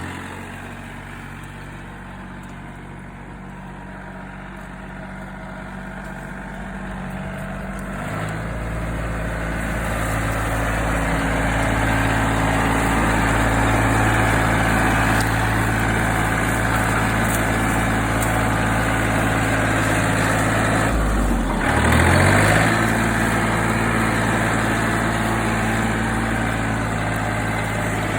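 John Deere tractor engine running. Its speed steps up about a third of the way in and it grows louder, then the engine briefly drops in pitch and recovers about three quarters of the way through.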